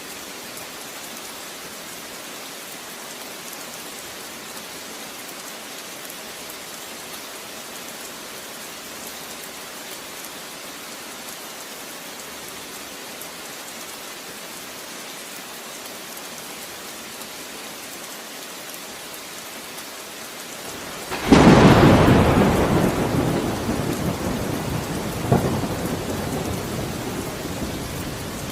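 Steady rain falling, then about three quarters of the way through a sudden loud thunderclap that rumbles on and fades, with a second, smaller crack a few seconds later.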